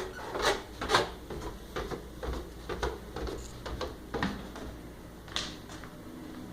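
Footsteps going down a flight of indoor stairs, about two steps a second, the last one landing about five seconds in.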